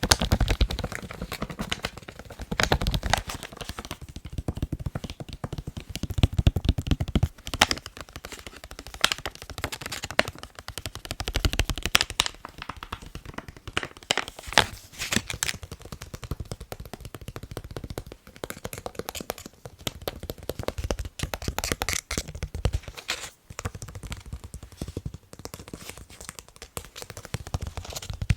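Fingers tapping fast on a face mask: a rapid, dense stream of sharp clicks that grows louder and softer in flurries.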